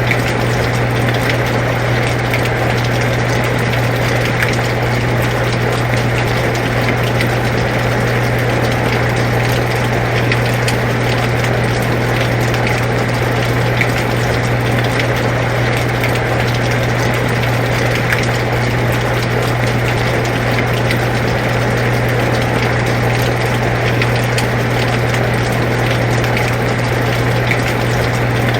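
Air conditioner running with a steady low hum, under the even hiss of steady rain with scattered ticks of drops.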